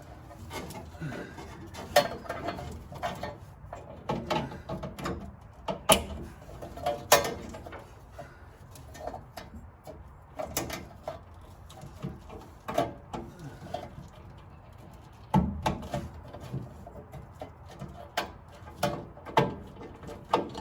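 Irregular clicks, knocks and light rattling from wiring-loom connectors and plastic clips being handled and pushed into place inside a car body.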